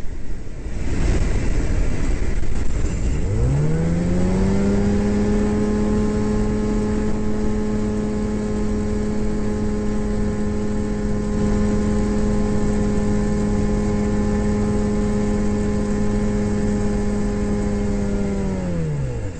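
A light aircraft's engine catches and spins up to a steady running pitch about three seconds in: the restart after the engine had cut out in flight. It holds that steady drone for about fifteen seconds, then winds down near the end. Wind rushes throughout.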